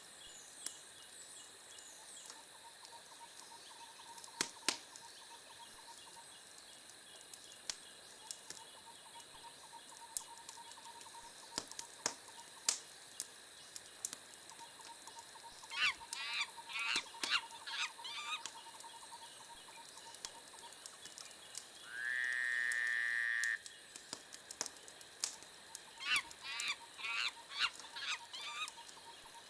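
Wood fire crackling in a fireplace, with sharp pops scattered throughout. Two bursts of short high squeals come in the middle and near the end, and a loud held high tone lasts about a second and a half shortly after the middle.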